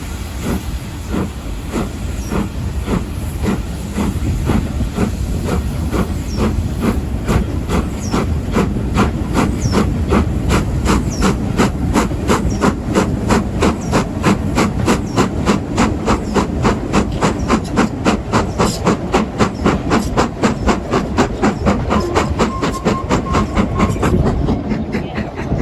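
Steam locomotive chuffing in a fast, even rhythm, several exhaust beats a second over the rumble of the train, with a hiss of steam. The beats die away about a second before the end.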